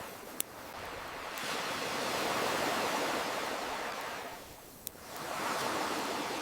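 Ocean waves surging and receding in slow swells, with a campfire crackling over them: two sharp pops, about half a second in and just before five seconds in.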